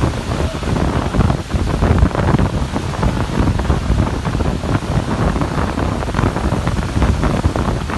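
Strong storm wind gusting and buffeting a phone's microphone, a loud, uneven rushing noise heaviest in the low end.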